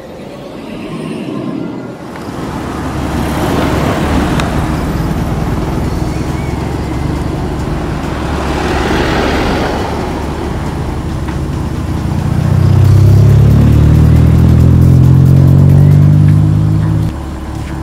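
BMW E34 engine running, heard at the exhaust as a steady low drone with swells of rushing noise a few seconds in and again near the middle. About two-thirds of the way through it becomes a louder, deeper steady drone for some five seconds, then cuts off suddenly.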